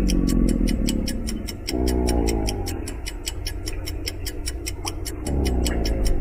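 A young crocodile calling twice, each a falling call about a second long, about two and five seconds in. Under it run steady rapid clock ticking and background music.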